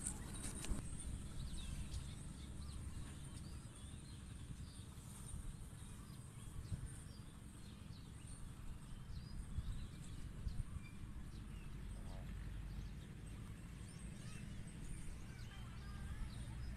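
Outdoor ambience: small birds chirping here and there over a steady low rumble.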